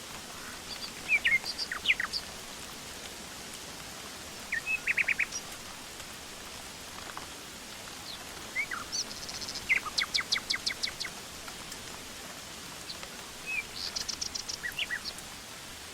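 Songbirds singing over a steady hiss of forest background, in four separate bursts of chirps and quick trills of repeated notes.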